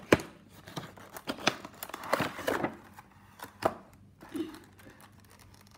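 A small cardboard model box being opened by hand, with the flaps pulled open and packaging handled: irregular sharp clicks and short rustling scrapes, thinning out near the end.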